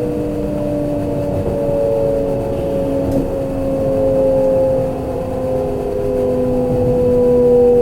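Kintetsu limited express train running, heard from inside the passenger car: rumbling wheel and track noise under several whining motor tones that slowly fall in pitch, a sign that the train is losing speed.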